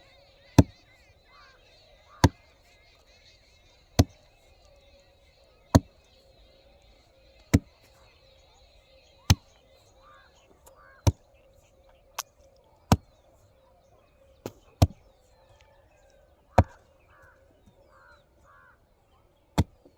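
Sharp, loud impacts at an even pace, one about every two seconds, with short bird calls between them.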